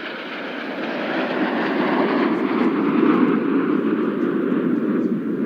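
Jet engine noise from a formation of BAE Hawk T1 jets in flight, a steady rushing rumble that grows louder over the first few seconds and then holds.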